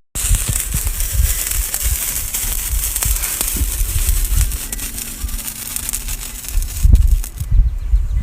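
Fountain firework spraying: a steady hiss with crackling, over irregular low thumps.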